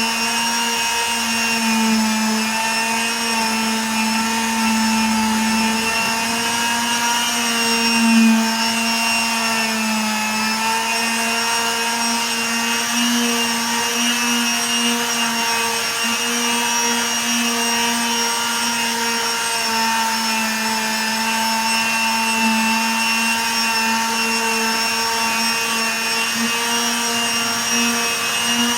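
A small electric motor running with a steady, unchanging hum.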